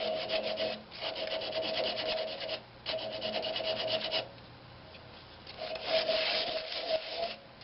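Coarse sandpaper rasping against a pine knob on a wood lathe, in four passes with a fast, even rhythm and short breaks between them, the longest break just after the middle.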